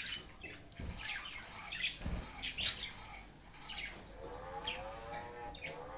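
Pet budgies chirping and squawking in short scattered calls, with a longer warbling call in the second half. A low knock comes about two seconds in.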